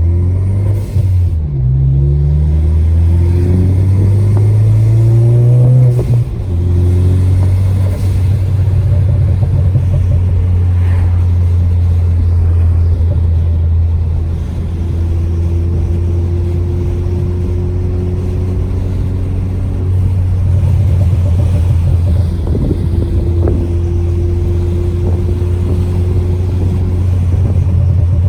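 Ford Focus ST's turbocharged four-cylinder engine breathing through a Cobb exhaust with a catless downpipe, accelerating with rising pitch, dropping once near one second as it shifts up, then climbing again until about six seconds in. After that it holds a steady low drone at constant speed.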